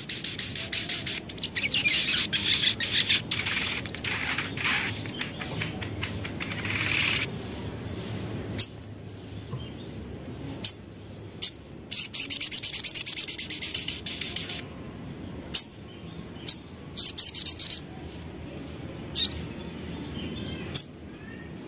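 Crimson sunbird (sogon) song: rapid, high-pitched twittering trills in bursts of a second or two, near the start, around 12–14 s and around 17 s. Single sharp chips come between the bursts.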